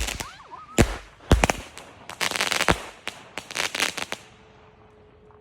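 Consumer firework going off: several sharp bangs mixed with longer hissing bursts, stopping about four seconds in.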